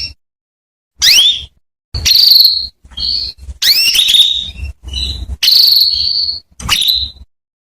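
Female canary calling: about seven bursts of short, rising whistled chirps, each sweeping up high, separated by brief silences. These are the calls used as a lure to draw a male canary into song.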